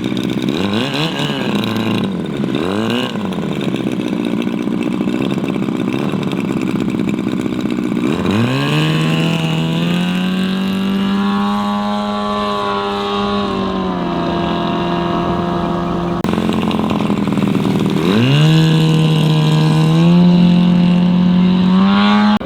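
Large radio-controlled model airplane engine running, its pitch rising and falling briefly at first, then throttled up sharply twice, about a third of the way in and again near the end, each time holding a steady high pitch.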